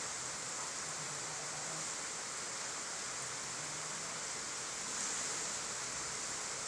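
Steady rain falling, an even hiss that swells slightly about five seconds in.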